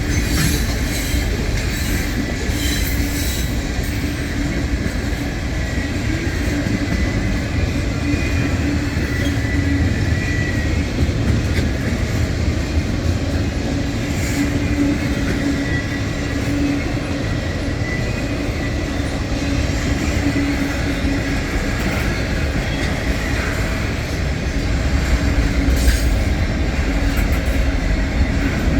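CSX freight train rolling past, a steady rumble of wheels on rail with a thin, high wheel squeal coming and going.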